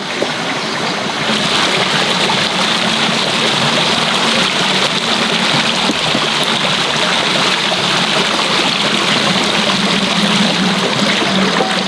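A steady rushing noise like flowing water, which grows fuller about a second in and then holds even.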